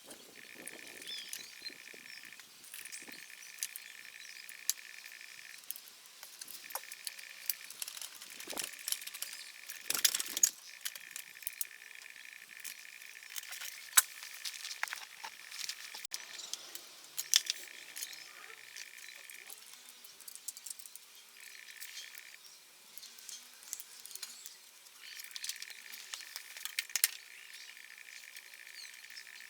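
Scattered light clicks, taps and clinks of metal parts and hand tools being handled during engine disassembly. Behind them an insect keeps up a steady high trill that stops and restarts every few seconds.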